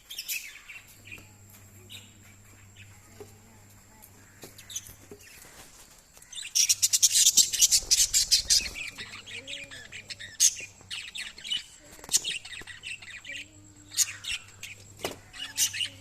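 Small pet parrots (lovebirds) chirping and squawking. Scattered calls give way to a dense run of rapid chattering from about six and a half to nine seconds in, the loudest part, then spaced-out chirps again.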